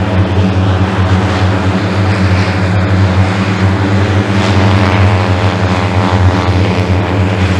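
Engine running with a steady low drone, and a faint higher whine over it from about midway until near the end.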